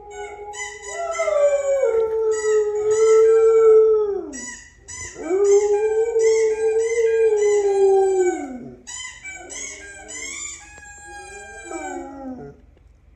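Dog howling, overlapping with playback of her own recorded howling: two long drawn-out howls whose pitch falls away at the end, followed by shorter, broken howls.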